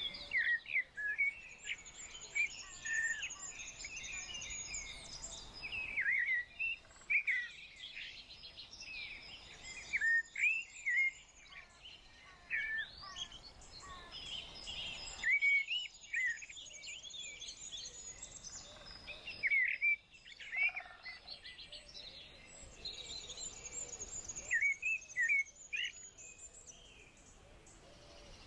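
Several small birds singing and chirping, with quick repeated chirps and thin high trills coming in clusters over a faint steady background hiss.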